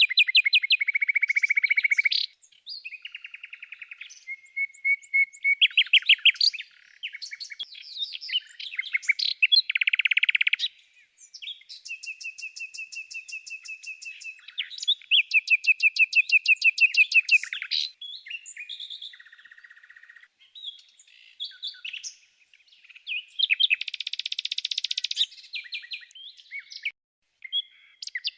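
Birds singing and chirping in a long run of varied phrases: fast trills and rapidly repeated high notes, with brief pauses between phrases.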